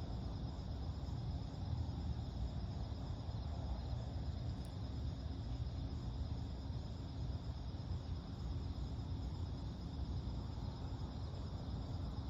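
Crickets chirping in a steady, continuous chorus of fine pulsing trills at two high pitches, over a low steady rumble.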